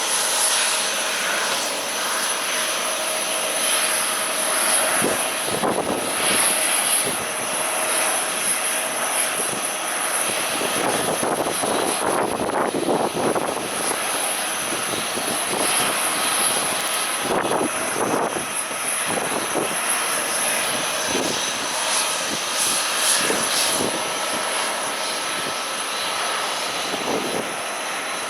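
Airliner engines running at an airport, a steady whine over a broad rush, with strong wind gusting on the microphone.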